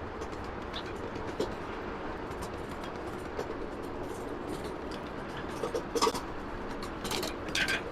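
Ride-on miniature railway train rolling along its track: a steady running noise with scattered light clicks, and a few sharper clicks about six and seven seconds in.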